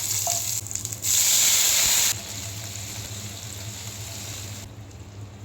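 Chicken frying in hot oil: a steady sizzling hiss that grows much louder for about a second, about a second in, then settles back, over a low steady hum.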